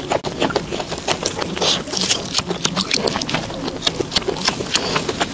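Close-up chewing of crisp food: rapid, irregular crunches and clicks.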